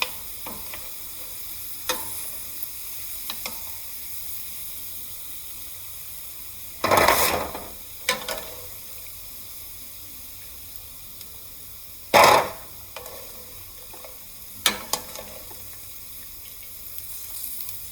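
Chicharrón pellets frying and puffing up in hot oil, with a steady sizzle. Two brief louder surges of sizzle come about 7 and 12 seconds in, and there are a few light clicks.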